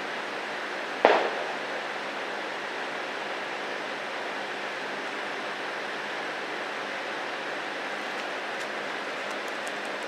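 Steady hiss of rain falling on foliage. About a second in, a single sharp loud knock rings off briefly.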